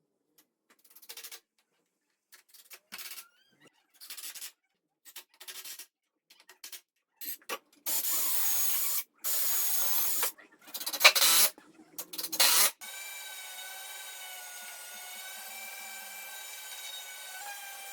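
Short scraping strokes on wood, like hand-tool work, that grow longer and louder about halfway through. They then give way to a steady machine hum with several tones.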